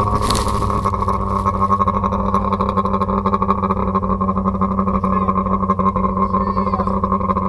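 Rally car's engine running at a steady high speed, its note unchanging, while the car lies overturned on its side in the snow. A short burst of noise, from snow thrown over the camera, comes just after the start.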